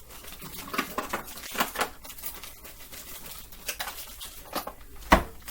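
Baby carrots being dropped by hand into a pan, a scatter of light taps and clatters, with one sharper knock about five seconds in.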